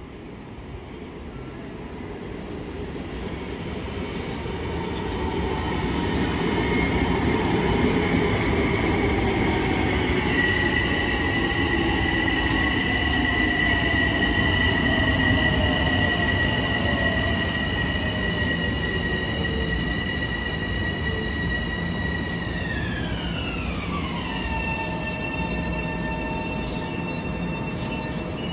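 Long Island Rail Road train approaching and passing close by. It grows louder over the first several seconds into a steady rumble with a high, steady squealing tone. Near the end the tone slides down in pitch over about two seconds and then holds lower.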